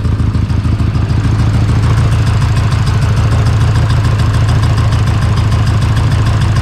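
Nissan S14's turbocharged SR20 four-cylinder idling roughly with an uneven, lumpy beat that still sounds like a Subaru: a misfire on cylinder 3. It gets a little louder about a second and a half in.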